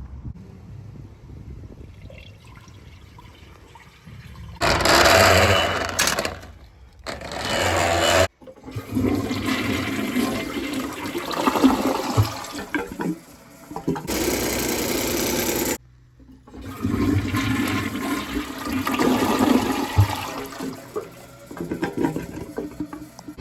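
Toilet flushing, with water rushing and draining in several stretches that cut off abruptly.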